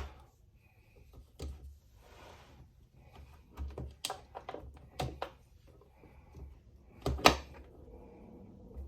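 Small tools and plastic parts handled on a workbench: scattered sharp clicks and knocks, the loudest pair about seven seconds in, with a brief hiss about two seconds in.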